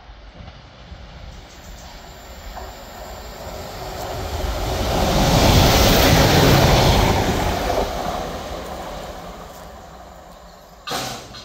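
Class 197 diesel multiple unit passing at speed. Its wheel and engine rumble swells to a peak about halfway through, then fades away. A short sharp bump near the end.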